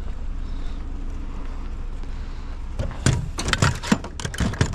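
Salvaged curbside scrap being tossed into a vehicle, a quick run of clanks and rattles starting near the end, over the steady low hum of an idling vehicle.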